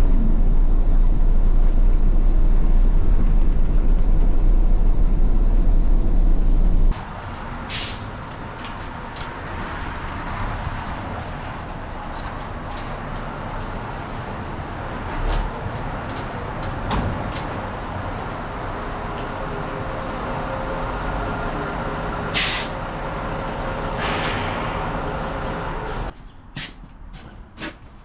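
Low, steady in-cab drone of a Mitsubishi Fighter dump truck's 7.5-litre common-rail diesel on the road, cutting off abruptly about a quarter of the way in. The truck is then heard running, with a few sharp hisses of compressed air from its air system, and the sound drops quieter near the end.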